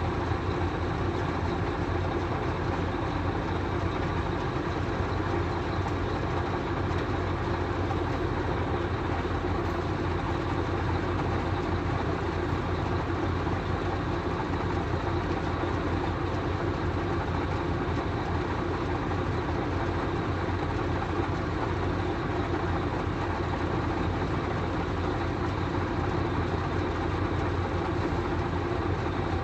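Steady vehicle engine rumble with an even hiss of noise over it, unchanging throughout.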